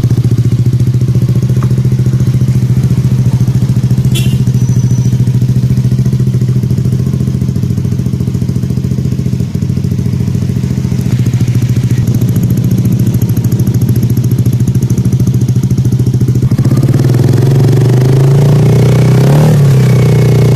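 Yamaha Aerox 155 scooter's single-cylinder four-stroke engine idling steadily and loudly through an aftermarket 'Province Cobra' exhaust. Near the end the note grows fuller and the engine is briefly revved, its pitch rising and falling.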